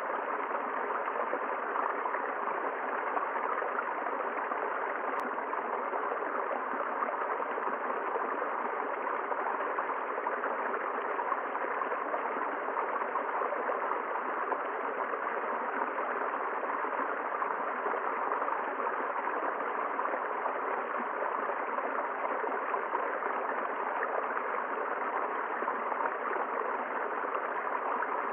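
A river running steadily over rocks, a constant rush of flowing water.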